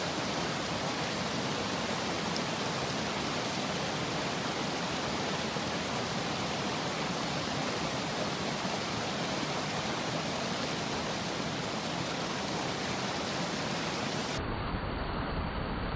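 Mountain stream's water rushing steadily. Near the end the sound switches abruptly to a duller noise with a heavy low rumble.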